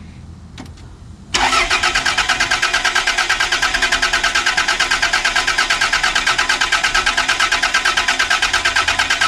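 Starter motor cranking the freshly swapped engine of a Toyota Celica SS-II. It kicks in suddenly about a second in and turns the engine over in an even, rapid beat without it firing.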